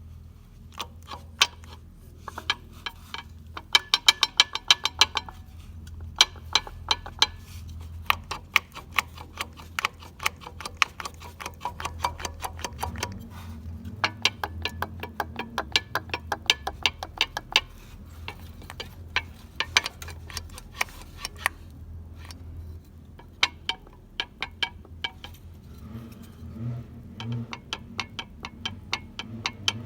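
An Opel Combo 1.3 diesel engine running with a steady low hum, over which come runs of rapid, sharp metallic clicking that start and stop every few seconds.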